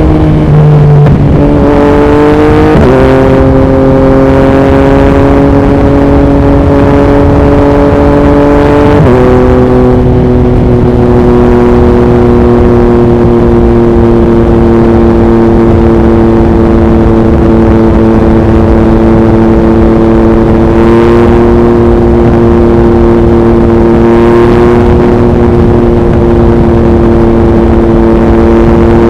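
2021 Yamaha MT-09's three-cylinder engine running through an Akrapovic racing exhaust at highway speed, with wind noise on the microphone. Its pitch changes in steps twice in the first ten seconds, then it cruises at a nearly steady pitch.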